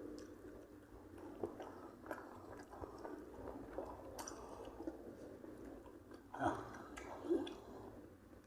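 A person chewing and biting food close to the microphone, with many small irregular wet clicks and two louder ones about six and a half and seven and a half seconds in.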